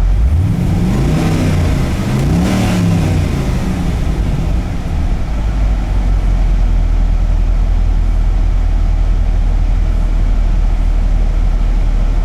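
2006 Pontiac GTO's 6.0L LS2 V8 revved twice in quick succession, each blip rising and falling within about a second, then settling back to a steady idle.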